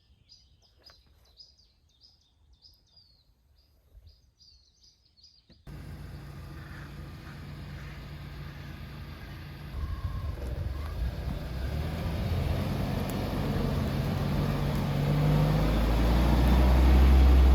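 Small birds chirping quietly for about six seconds, then a sudden change to a motor vehicle's engine and road noise, building steadily louder to the end.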